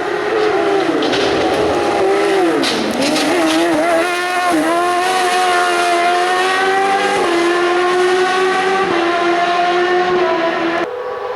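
Racing car engine under hard use on a hill climb: the note drops steeply about three seconds in as the car slows for a bend, then climbs again as it accelerates and shifts up a couple of times. Near the end the sound changes abruptly to a different, steady engine note.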